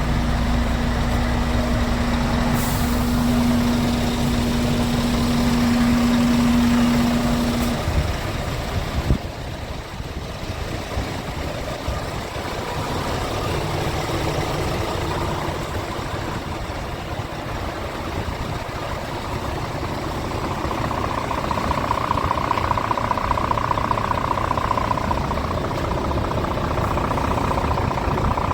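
Scania P410 truck's 13-litre inline-six diesel running steadily. A low steady hum cuts off about 8 seconds in, a single sharp knock follows about a second later, and a higher steady whine comes in near the last third.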